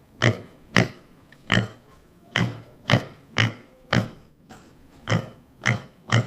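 An animal giving a quick series of short, sharp calls, about two a second.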